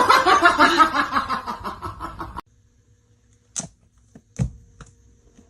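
A person laughing in quick repeated bursts, cut off abruptly a little over two seconds in, followed by a couple of faint knocks.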